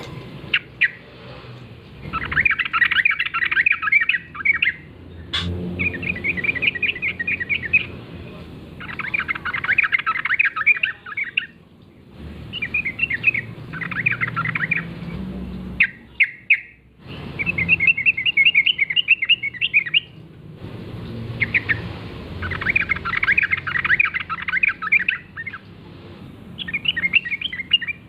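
Yellow-vented bulbul (trucukan) singing: a string of rapid, bubbly chattering phrases, each a couple of seconds long, repeated with short pauses.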